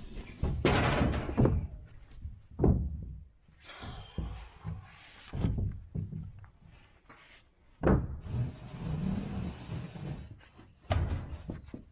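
Building work on a chicken tractor: a string of irregular thumps and knocks, with about two seconds of steady rushing noise near the end.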